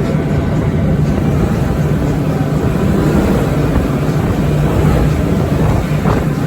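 Four Mercury 450 hp outboard motors running together, a loud, steady drone with a constant rushing noise over it.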